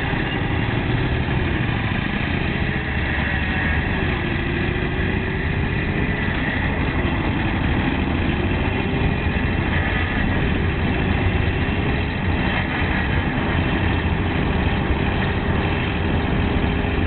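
Turbocharged Harley-Davidson WL 45 flathead V-twin running steadily, its engine speed dipping and rising gently several times.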